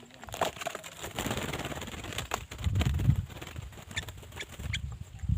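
A few short, high chirps of a sooty-headed bulbul (kutilang) among clattering knocks and low rumbling, the clearest chirps about four seconds in.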